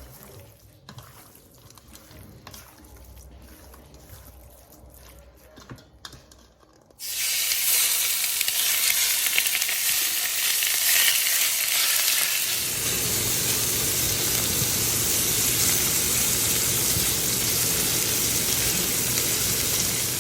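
A few faint clicks and knocks, then about seven seconds in a sudden, loud, steady sizzle as seasoned salmon bites go into hot olive oil in a frying pan and fry.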